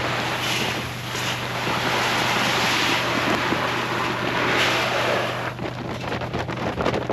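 A loud rushing noise swells and holds for about five seconds, then gives way to scattered rattling and clicking, over a steady low hum.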